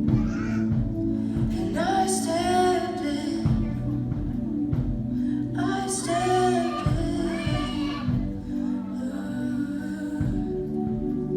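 Live worship music: singing over sustained instrumental chords. Two strong sung phrases come about 2 and 6 seconds in, and a softer one near the end.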